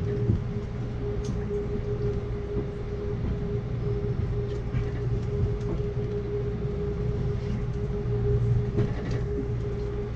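Amtrak Cascades passenger train rolling slowly, heard from inside the coach: a low rumble with a steady hum running under it and a few light clicks and knocks.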